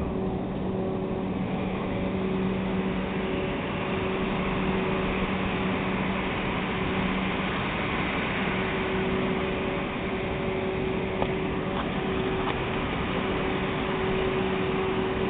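A1 Pacific steam locomotive 60163 Tornado standing with steam hissing steadily over a low, constant hum, with a few faint clicks near the end.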